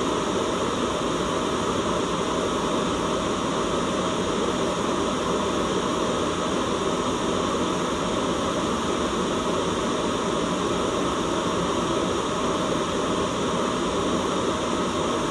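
Steady white noise: an even, unchanging hiss with no breaks or events, fuller in the lower-middle range than in the highs.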